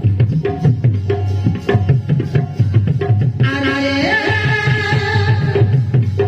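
Bastar folk-theatre (naat) music: a steady, rhythmic hand-drum beat, joined about halfway by a held melody line that slides in pitch.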